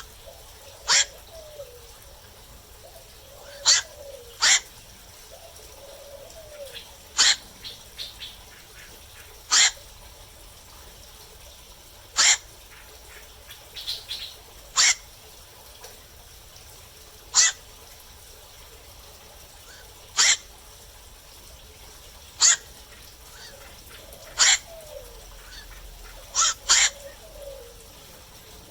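Black-crowned night heron giving short, sharp kwok calls every two to three seconds, sometimes two in quick succession.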